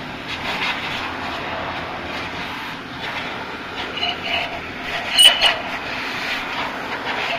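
Steady mechanical running noise, with a few sharp metallic clinks between about four and five and a half seconds in.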